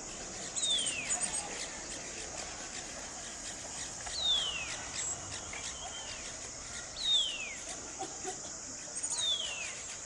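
A small songbird calling a clear falling whistle four times, about every two to three seconds, with a few short high chips near the start and the end, over a steady high hiss.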